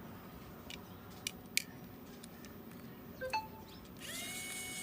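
Light clicks and taps of small repair tools, then a small electric motor whining at a steady pitch for about a second near the end, after a brief rise as it spins up.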